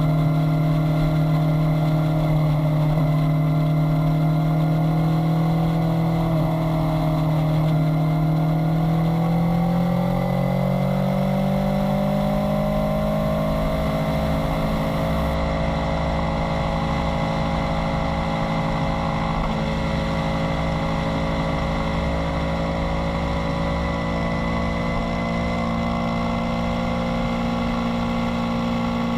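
Kawasaki Z900's inline-four engine running under way at a steady cruise, its pitch rising gently about six to thirteen seconds in and then holding steady.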